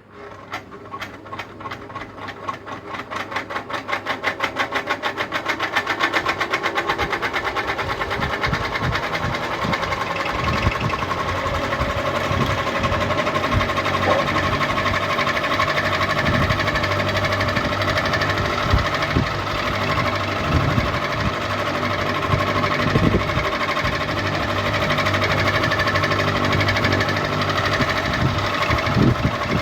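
Ceiling fan spinning up: a rhythmic ticking once per turn that speeds up over the first several seconds, then settles into a steady, fast mechanical running sound with a hum and irregular knocks.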